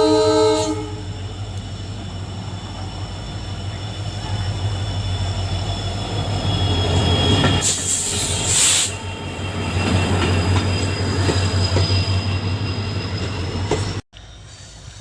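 Indian Railways EMD diesel locomotive: its horn ends just under a second in, then the engine hums steadily with a thin high whine above it. A loud rush of noise comes about eight seconds in, and near the end the sound cuts abruptly to something quieter.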